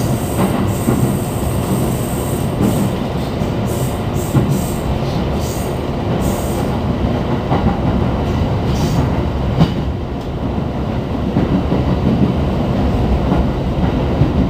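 Tokaido Line commuter train heard from inside the carriage while running: a steady low rumble of wheels on rail, with scattered sharp clicks over rail joints and points during the first two-thirds.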